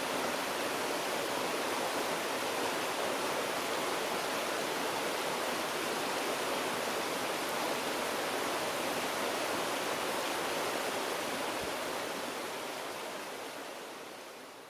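Shallow stream babbling and gurgling steadily over stones, fading out over the last few seconds.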